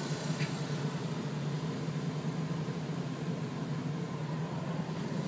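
Car running with a steady low engine drone and road noise, even and unchanging throughout.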